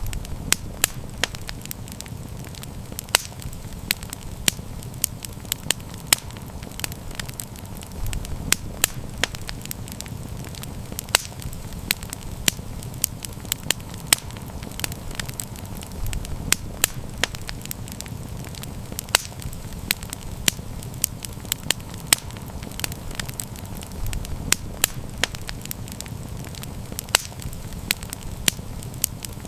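Wood campfire crackling: frequent sharp pops and snaps, irregular and several a second, over a steady low rumble of the flames. The rumble swells briefly about every eight seconds.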